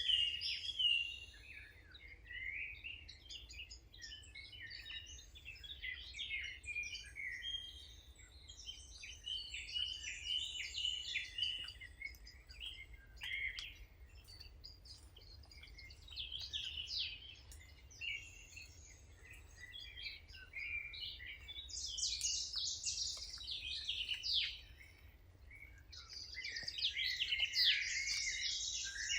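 Several songbirds chirping and singing in quick, overlapping high phrases, with the calling getting busier and louder in two spells toward the end.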